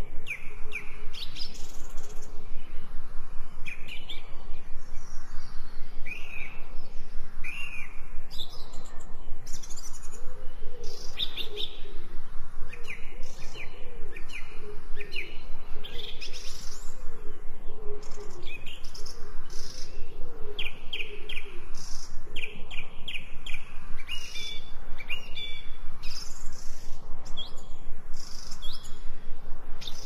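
Birds chirping and singing, with many short high calls and trills repeated throughout. A lower warbling call runs from about ten to twenty-two seconds in.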